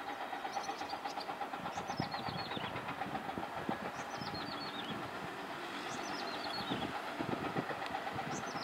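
A small bird repeats a short run of high notes falling in pitch, about once every two seconds, over a steady, rapidly pulsing hum and a few low knocks.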